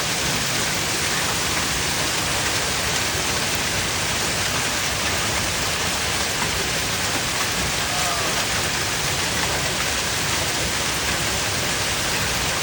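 Hailstorm: hail and heavy rain pouring down, a loud, steady, dense roar of impacts.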